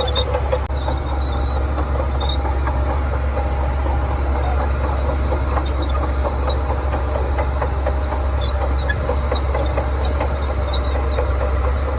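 Shantui bulldozer's diesel engine running steadily: a deep, even drone with a light, rapid clatter over it.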